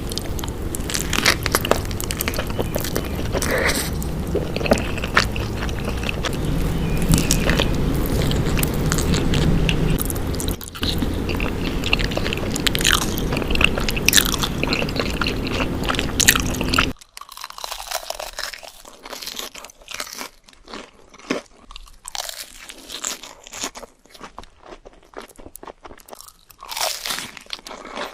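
Close-miked eating sounds: crunching bites and chewing of food. About two-thirds of the way through the sound changes abruptly to a quieter background with separate, crisp crunches.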